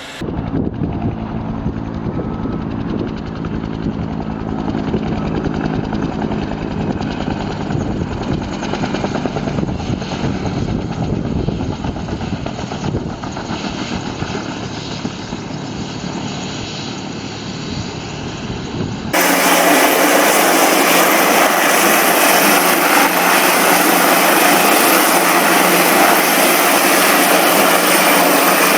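Aircraft engine and propeller noise in two different recordings. The first is deep-toned with a few faint steady tones; about 19 seconds in it cuts abruptly to a louder, brighter, hissier one.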